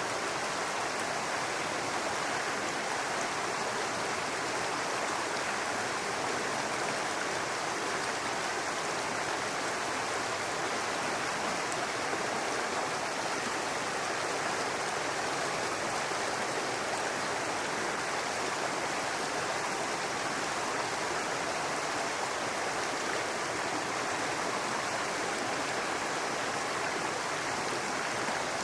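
Small brook babbling over rocks: a steady, unbroken rush and splash of running water.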